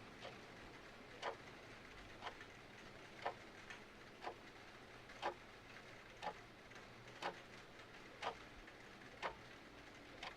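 Mechanical clock ticking, one tick each second with some ticks louder than others, over a faint steady hiss of rain.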